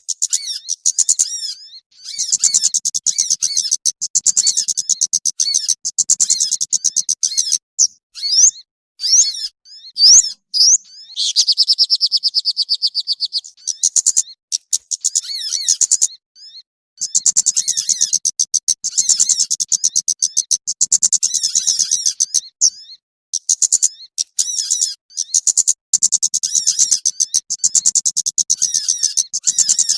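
Small birds' rapid, high-pitched chirping and twittering: lure calls for trapping small birds. The calls come in long fast runs of many notes a second, broken by short pauses, with a steadier buzzy trill partway through.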